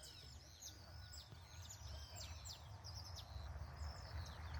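Several small songbirds chirping and calling, with many short, high, overlapping notes and quick sweeps, over a steady low rumble.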